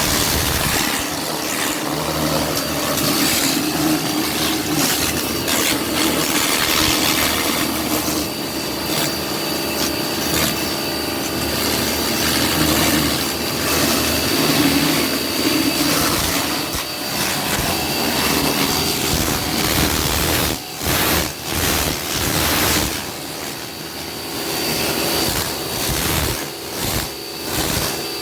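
Pressure washer running and spraying water, a steady motor hum with hiss, dipping briefly several times near the end.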